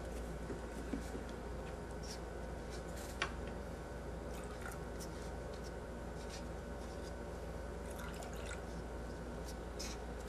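Water being put into cups: scattered small drips and clicks of liquid and cup handling, with one sharper click about three seconds in, over a steady low hum.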